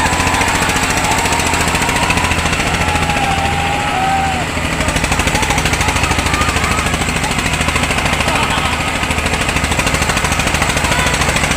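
Tractor diesel engine running steadily with a fast, even rattling beat; its low note shifts slightly about four and a half seconds in.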